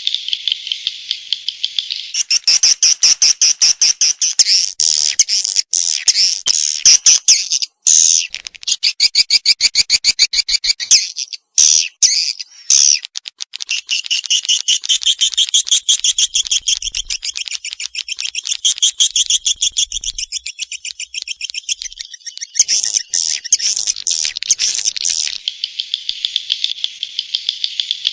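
Edible-nest swiftlet calls played as a lure recording of the kind used to attract swiftlets to nesting houses: rapid high chirping twitters repeating several times a second. A louder, denser stretch of calls runs from about two seconds in to about thirteen, and another comes near the end.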